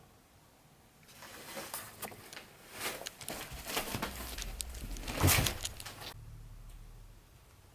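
Rustling and scattered light clicks and knocks of things being handled or stepped on amid loose debris, starting about a second in and stopping about six seconds in, with the loudest knock just after five seconds.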